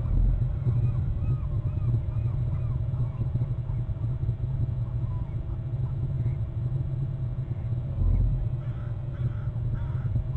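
Faint birds calling in short rising-and-falling chirps, a run of them in the first few seconds and another near the end, over a steady low rumble on the microphone. Two low thuds, at the start and about eight seconds in, are the loudest moments.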